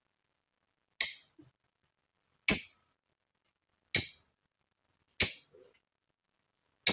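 Female lovebird giving short, sharp single chirps, five in all, about one every one and a half seconds, with silence between: the spaced ticking call that lovebird keepers call 'ngetik'.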